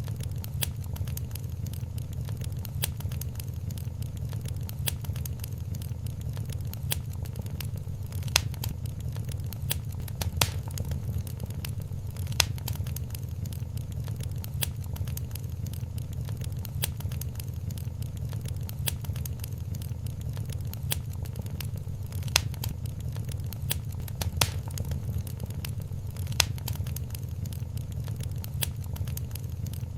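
Wood fire in a fireplace crackling steadily over a low, even rumble, with a few sharper pops standing out now and then.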